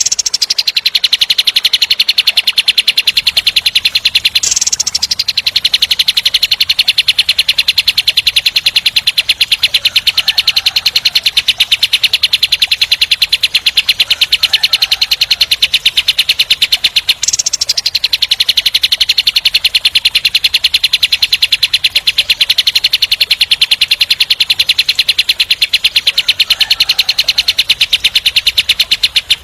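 Kapas tembak songbird giving a long, very fast trill of tightly packed high notes, the 'speed rapat' rolling song used as master song for training songbirds. It pauses twice for a sharper, higher note. Fainter chirps from another bird sound now and then underneath.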